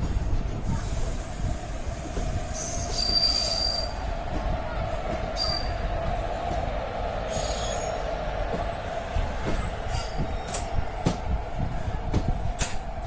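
Train running: a steady whine over a constant low rumble, with a few sharp clicks in the second half.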